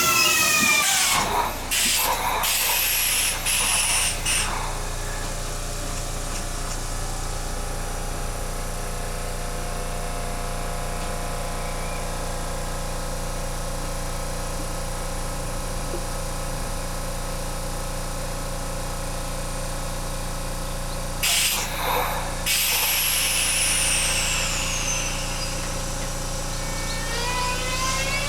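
Kintetsu electric train at a station platform. Its motor-inverter whine falls in pitch as it comes to a stop, followed by short hisses of air. It then stands with a steady electrical hum, with another burst of air hiss about three-quarters of the way in. Near the end the inverter whine rises in pitch as the train pulls away.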